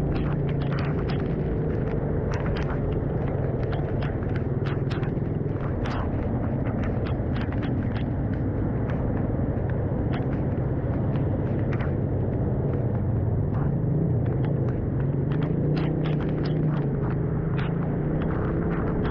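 Suzuki Raider 150 carb motorcycle engine running steadily while riding, a low drone whose pitch wanders slightly, with many irregular sharp ticks over it.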